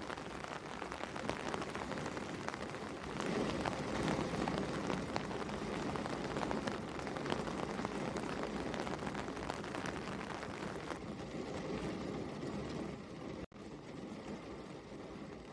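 Steady rain, with many small distinct drop impacts pattering. About thirteen seconds in the sound drops out for an instant, then goes on duller and quieter.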